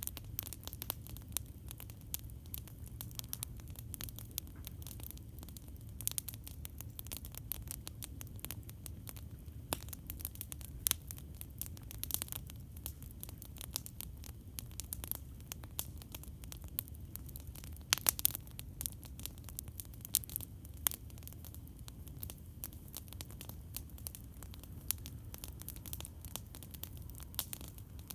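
Campfire wood crackling: irregular sharp pops and snaps, several a second, with a few louder snaps scattered through, over a steady low rumble.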